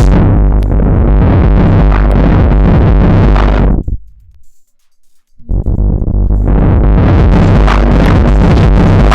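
Electronic synth and drum-machine loop run through an Erica Synths Black series filter. The cutoff sweeps down, dulling the pattern until it fades almost to silence about four seconds in. It then sweeps back open over the next few seconds until the full bright pattern returns.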